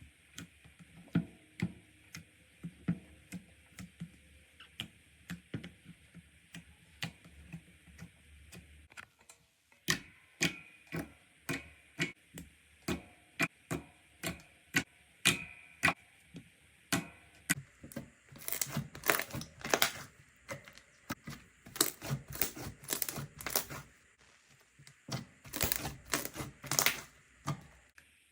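Slime being squeezed and poked by hand, making a run of sharp clicks and pops about two to three a second; about two-thirds of the way through the clicks turn denser and louder, into crackly squelches.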